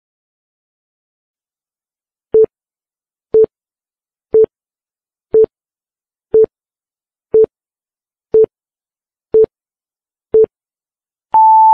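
Quiz countdown timer sound effect: short, low electronic beeps once a second, nine in all, counting down the seconds. Near the end a longer, higher beep begins, marking time up.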